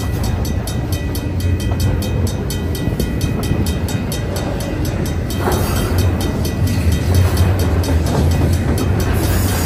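Double-stack intermodal container train rolling past at close range: steady low rumble of steel wheels on the rails with a run of fast, evenly spaced clicks from the wheels and well-car trucks.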